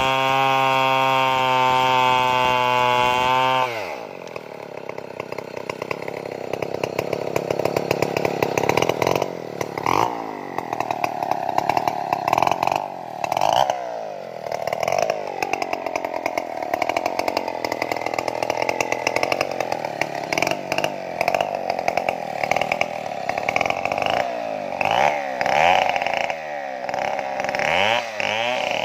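Stihl chainsaw held at full throttle with a steady high whine, whose pitch drops sharply about four seconds in. It then runs unevenly, its pitch rising and falling again and again as it works through the wood.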